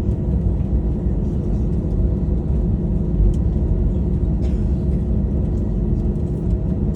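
Aircraft cabin noise during taxi: a steady low rumble from the engines and rolling wheels, with a few steady engine tones held throughout.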